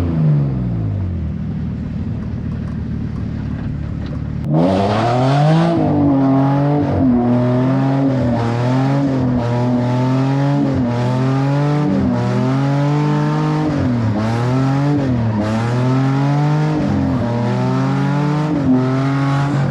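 Car engine revving loud and hard. After a few seconds running low and steady, it picks up sharply and then rises and falls in pitch about once a second as the throttle is worked on and off.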